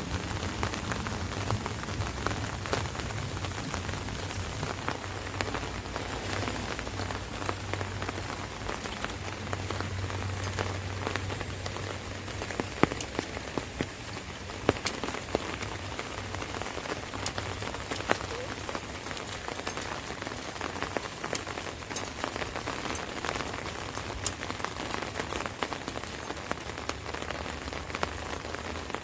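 Rain falling on an umbrella overhead: a steady hiss of rain with sharp individual drop taps, a few of them louder in the second half. A low rumble underneath fades out about halfway through.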